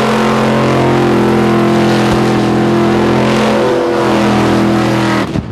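Fuel-injected V8 of a Holden VK Commodore burnout car held at high, steady revs while its rear tyres spin in smoke. The revs drop off sharply near the end.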